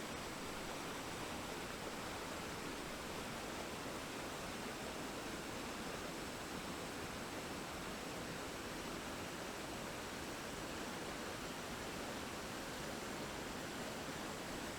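Steady, unchanging rushing noise with no breaks or events.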